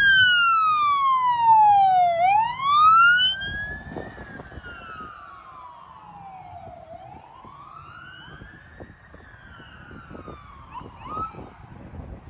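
Electronic wail siren of a responding emergency vehicle, its pitch slowly rising and falling. It is loud for the first three seconds or so, then drops away sharply and carries on faintly.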